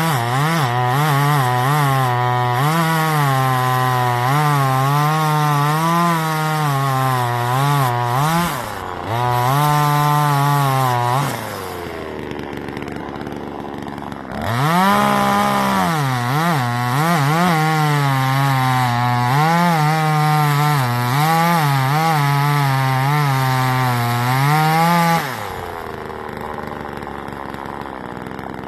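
Two-stroke gasoline chainsaw cutting wood at full throttle, its engine pitch wavering up and down under the load of the cut. It drops back to idle about 11 seconds in, revs up and cuts again about 3 seconds later, then falls back to idle near the end.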